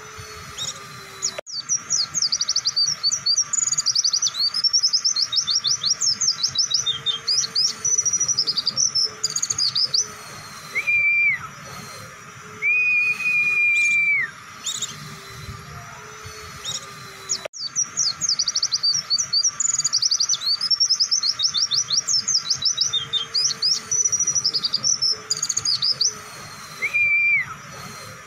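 Pleci (white-eye) song: two long runs of rapid, high twittering notes, each about eight seconds, the second repeating the first, the long 'nembak' delivery used for tutoring birds. Between the runs come long, steady whistled notes.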